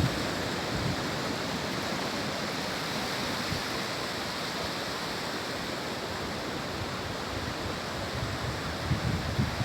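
Steady wash of sea surf on a beach, an even rushing noise with no single wave breaks standing out.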